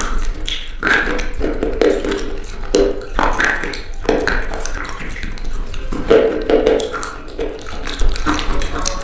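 Dried-out old soap crunching as it is cut or pressed, in a run of irregular crackly crunches with a low hum beneath.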